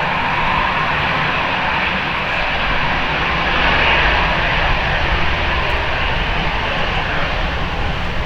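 Airbus A321 airliner's jet engines, a steady roar that swells slightly about four seconds in, with strong wind buffeting the microphone.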